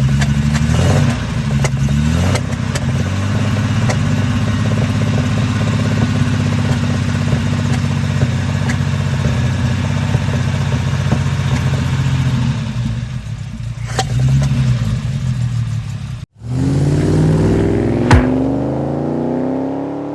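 Jaguar E-Type's straight-six engine running under way, its note shifting briefly early on and then holding steady. About three quarters through the sound breaks off abruptly and comes back accelerating, the engine note climbing steadily, with a single sharp knock partway through the climb.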